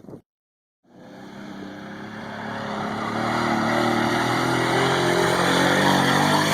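A truck engine held at high revs, fading in after a brief gap of silence, growing louder over the first few seconds and then staying steady, with a noisy rush over the engine note.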